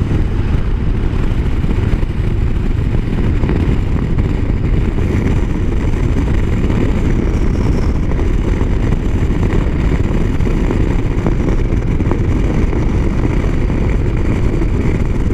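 Motorcycle cruising on the highway: a steady low rush of wind and road noise with the engine running underneath, holding an even pace throughout.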